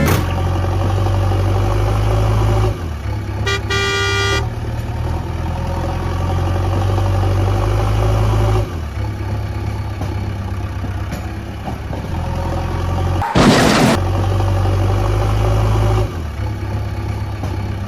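Cartoon vehicle sound effects: a steady low engine drone that steps up and down in level, with a horn toot about three and a half seconds in and a short loud noisy burst about thirteen seconds in.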